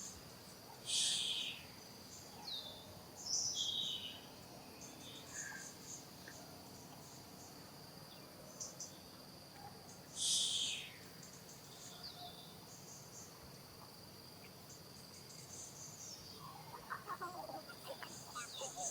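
Outdoor ambience of a steady high insect drone with scattered short high chirps, and two louder high calls, one about a second in and one about ten seconds in.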